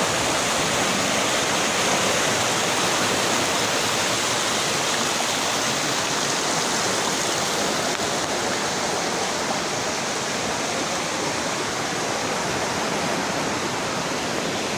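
Waterfall, its water rushing in a steady, even noise.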